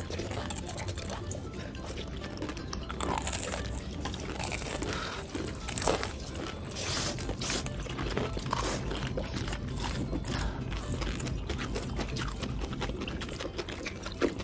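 A person eating: repeated crunching bites and chewing, over background music.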